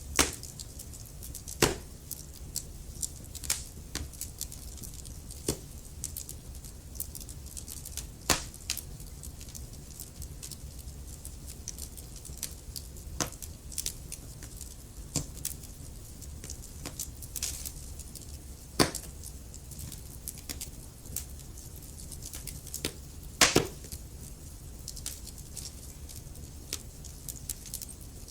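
Wood fire crackling in a fireplace: a steady stream of small ticks and pops, with a few much louder snaps scattered through, over a low steady rumble.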